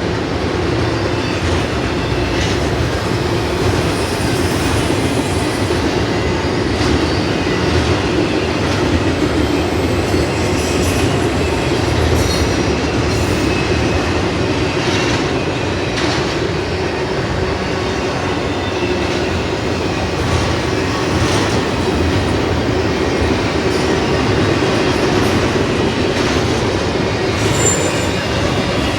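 Freight cars of a BNSF intermodal train rolling past at speed: a steady loud rumble of steel wheels on rail, with irregular clicks as the wheels cross rail joints.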